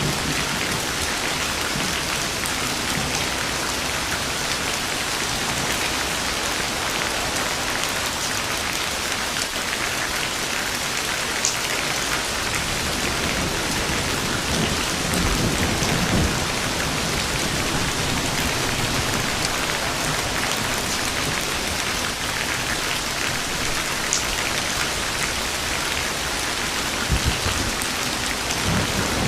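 Steady, heavy rain falling. A low rumble of thunder swells about halfway through, and a brief low thump comes near the end.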